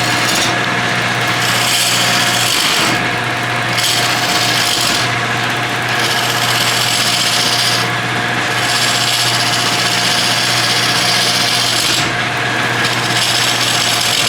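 Wood lathe running with a steady motor hum while a turning tool cuts into a spinning burl-wood bowl. The scraping cut breaks off briefly every two to three seconds as the tool is drawn back and re-engaged.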